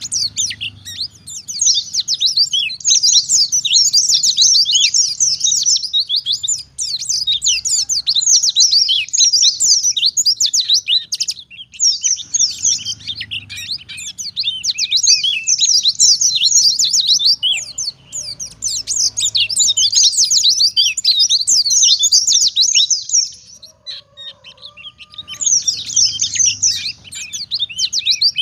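White-eye (pleci) singing a fast, high, twittering song in long unbroken bouts, with brief pauses about 7 and 12 seconds in and a longer one near the end. A faint low hum runs underneath.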